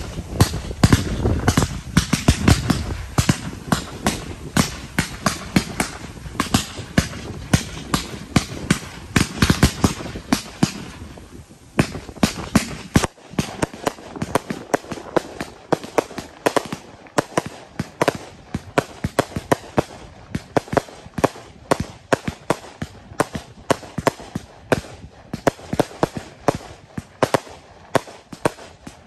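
Consumer 1.4G fireworks cakes firing: a rapid string of sharp bangs and crackles as shots launch and burst, several a second, with a deeper rumble in the first few seconds and a short lull about twelve seconds in.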